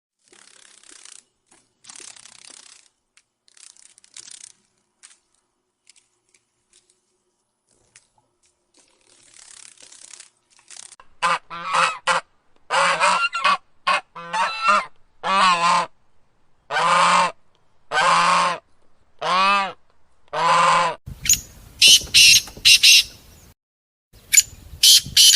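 Goose honking: a run of about a dozen loud pitched honks, each under a second long, after some faint scratchy noises. Shriller, higher bird calls follow near the end.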